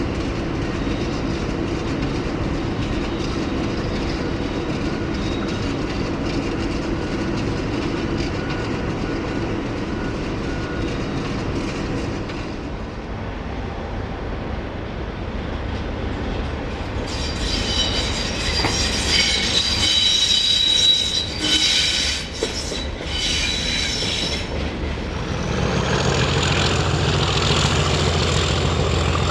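A train running on the rails with a steady rumble, then high-pitched squealing of the wheels on the rails for several seconds past the middle. Near the end a low steady engine hum with a thin high whine takes over.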